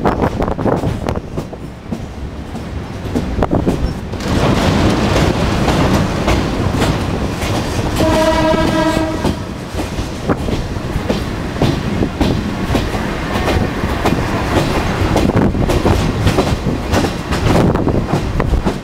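Diesel railcar train (KiHa 58/KiHa 65) running, with the clickety-clack of wheels knocking over rail joints. Its horn sounds once, about eight seconds in, for a little over a second.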